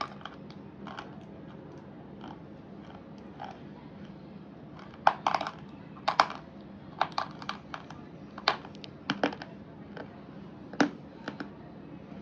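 Hard chalky slate-pencil-type pieces being bitten and crunched: sharp crisp crunches in irregular clusters, sparse at first and coming thicker from about five seconds in.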